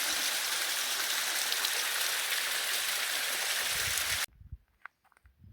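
Steady rushing of flowing stream water, which cuts off abruptly about four seconds in, leaving only a few faint low knocks and clicks.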